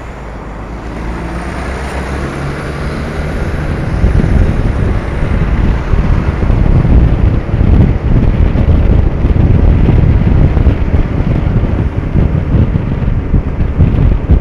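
Wind buffeting the microphone of a moving motorcycle over its low engine note. The buffeting builds from about four seconds in into a loud, steady low rumble as the bike picks up speed.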